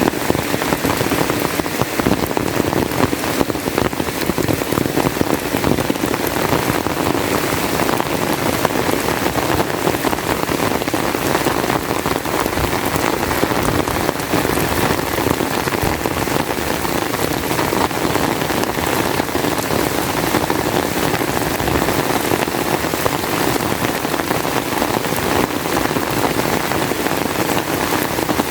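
Heavy rain falling steadily, a dense, even patter of drops that does not let up.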